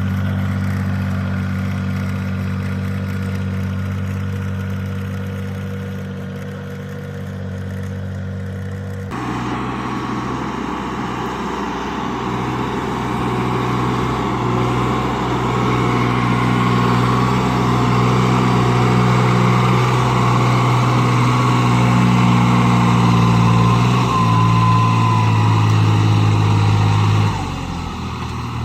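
Small tractor engine running steadily; about nine seconds in the sound changes abruptly to another engine working with its pitch shifting up and down, which drops back near the end.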